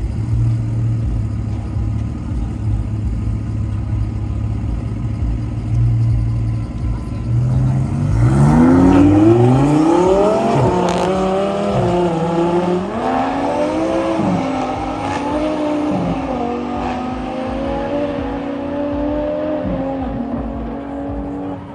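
Two sports-car engines, a white Audi R8's and a black coupe's, idling with a steady low drone. About seven seconds in they rev up and accelerate hard together through several gear changes, the pitch climbing and dropping at each shift, then holding a steadier tone near the end.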